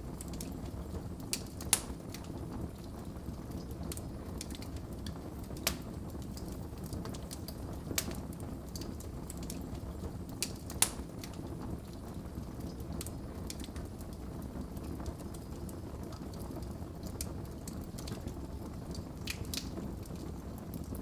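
Wood fire in a fireplace crackling, with irregular sharp pops and snaps over a steady low rumble of flames; the loudest pops come about two seconds in and near the middle.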